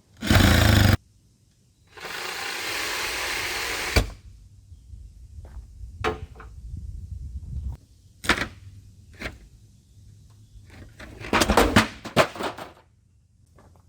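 A power saw cutting through the truck's wooden back wall in two short runs, the first very loud and brief and the second steadier, lasting about two seconds and stopping abruptly. Scattered knocks and clatter follow, with a quick flurry of sharp knocks near the end as the cut-out piece is worked free.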